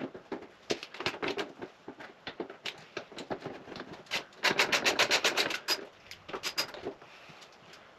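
Hand tools working on a dirt bike during disassembly: scattered knocks and clicks, with a fast, even run of clicks for about a second and a half near the middle.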